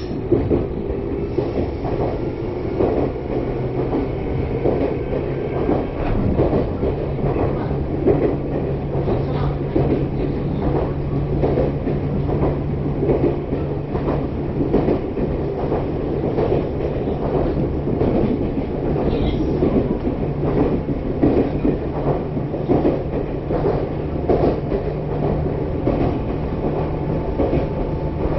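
Meitetsu Mikawa Line local electric train running along the track, heard from inside the carriage. A steady rumble of wheels on rail with a low hum under it, broken by frequent clicks and knocks from the track.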